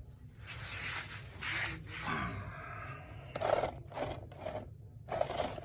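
Plastic toy playset pieces being handled, rubbing and scraping against each other, with a couple of sharper clicks.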